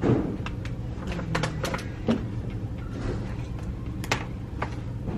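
A few sharp clicks and knocks over a steady low hum.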